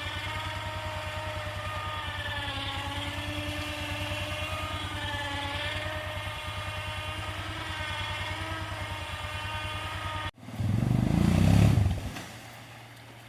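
An engine running steadily with a fast, even pulse. It cuts off suddenly about ten seconds in, followed by a louder low rumble lasting about a second and a half.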